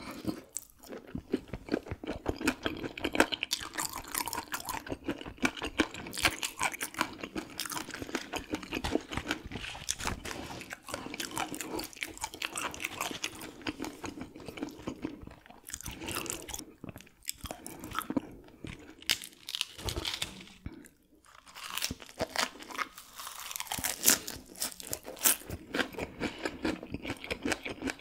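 Close-miked chewing of raw gizzard shad with its bones, a dense run of crisp crunches as the small bones break between the teeth, with a brief pause a little past the middle.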